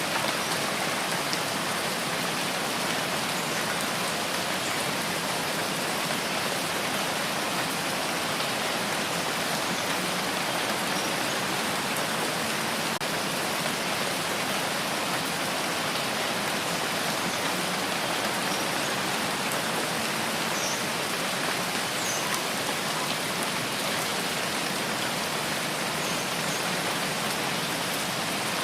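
Steady rain falling, an even hiss of drops without any distinct events.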